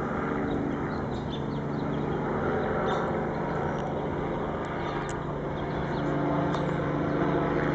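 Helicopter circling overhead: a steady drone of rotor and engine, swelling slightly in the second half.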